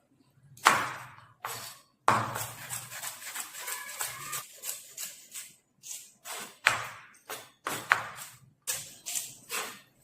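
Metal kitchen pots and utensils clattering and clinking: about a dozen sharp knocks, with a stretch of hissing noise and rapid small clicks from about two to four seconds in.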